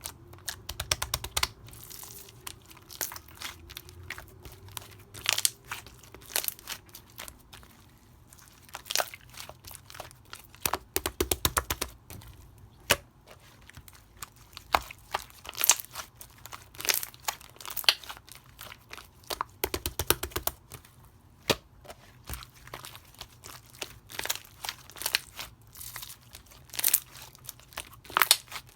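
Slime being squeezed and stretched by hand, with irregular crackling pops and clicks.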